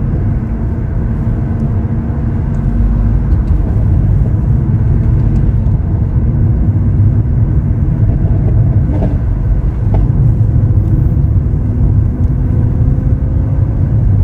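Lamborghini Aventador SV Roadster's 6.5-litre V12 running at a steady cruise under low road rumble, its note rising a little near the end.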